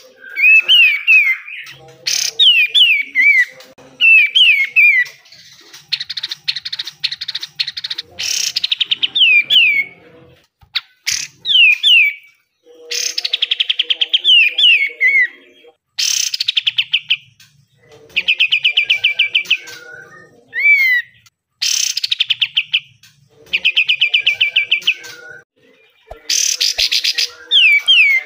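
A kapas tembak (katem) songbird singing its full, energetic song in repeated phrases with short pauses between them. Fast rattling runs of notes alternate with quick falling whistled slurs.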